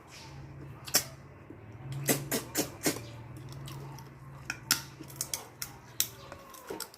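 Eating at close range: a string of sharp, irregular clicks and crunches from chewing food and handling dishes, over a low steady hum that stops near the end.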